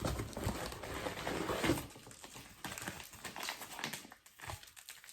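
Plastic food packaging crinkling as packages are handled, busiest in the first two seconds, then lighter and sparser.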